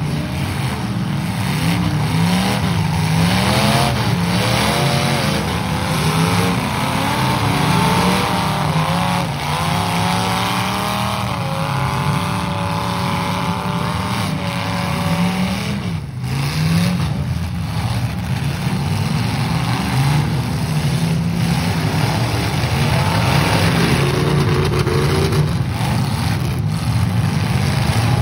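Several semi-stock demolition derby cars' engines running and revving together, their pitches rising and falling as the cars drive and ram in the dirt pit.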